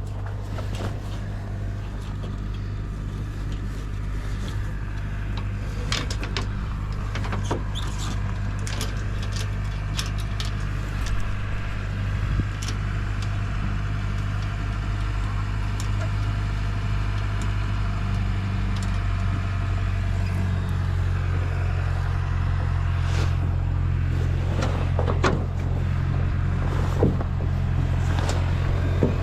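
A steady low engine hum, its pitch shifting slightly about twenty seconds in, with scattered clicks and knocks over it.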